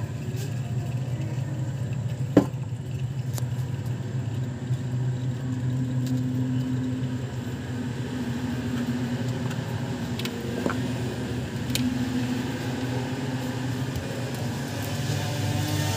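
A motor vehicle engine idling steadily, a low even hum. There is one sharp knock about two seconds in and a few faint clicks.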